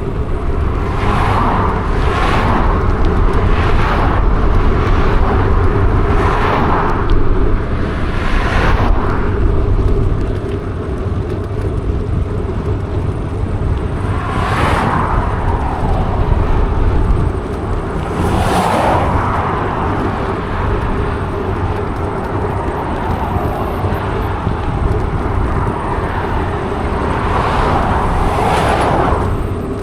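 Road traffic passing one vehicle after another, each a rush that swells and fades, about eight passes, over a steady low rumble.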